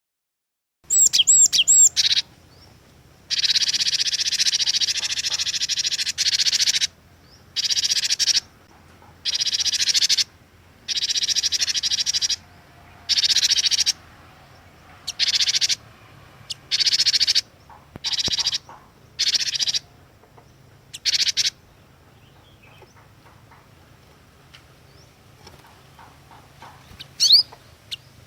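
Cinereous tit (gelatik batu) calling: a few high whistled notes, then a run of about ten harsh, rapid chattering bursts separated by short gaps, the first one the longest. After a quieter stretch, a few whistled notes return near the end.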